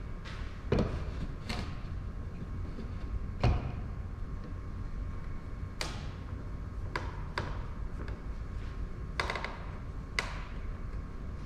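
Irregular knocks and clacks, about eight in all, of wood and clamps being handled on a workbench during a glue-up, two of them heavier, about a second in and three and a half seconds in, over a steady low hum.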